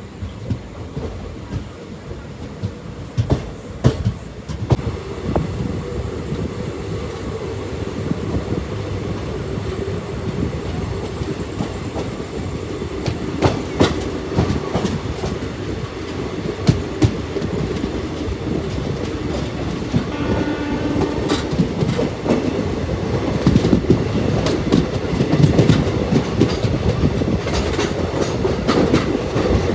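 Express train running on the rails: wheels clicking over rail joints over a steady rumble, growing gradually louder. A short pitched tone sounds briefly about two-thirds of the way through.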